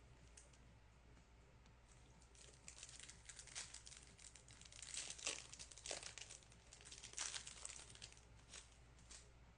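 Plastic trading-card pack wrapper being torn open and crinkled by hand, in an irregular run of crackles that is busiest in the middle.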